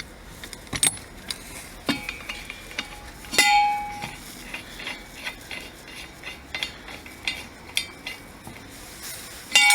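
Scattered metallic clinks and taps of tools and parts being handled while fitting bolts on a driveshaft universal joint, with one louder ringing metal clink about three and a half seconds in.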